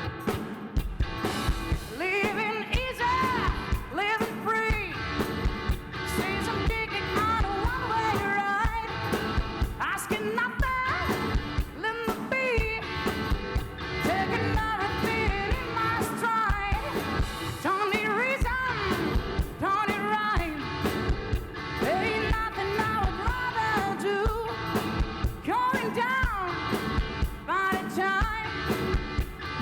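Rock band playing a song with sung lead vocals over guitar and drums.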